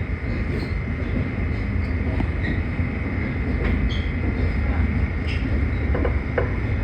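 NYC subway D train running, heard from inside the car: a steady rumble of wheels on the track, with a few clicks near the end.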